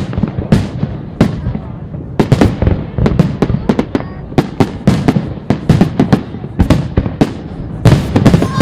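Fireworks display: a rapid, irregular barrage of sharp bangs from bursting aerial shells, several a second, over a continuous low rumble of overlapping reports.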